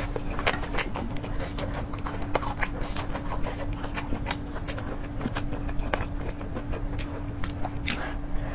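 Close-miked eating sounds: a person chewing with wet, irregular mouth clicks and smacks. A bite into a mouthful of green vegetables comes near the end.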